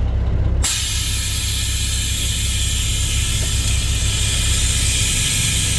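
Compressed air hissing out of a dump truck's air system: a sudden, steady release that starts about half a second in, over the low rumble of the truck's diesel engine.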